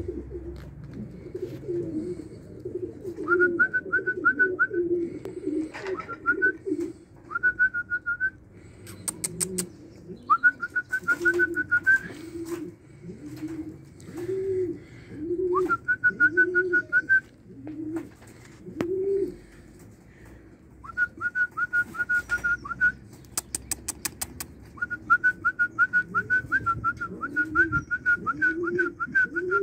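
Birds calling: a low call repeated over and over, about two a second at times, with a higher trill in phrases a second or two long every few seconds. Two short runs of rapid clicks come in about a third of the way in and again near the end.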